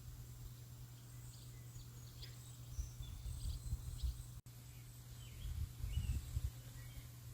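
Small birds chirping, with short calls and a few brief whistled glides, over a low rumble that swells in gusts. The sound drops out for an instant about four and a half seconds in.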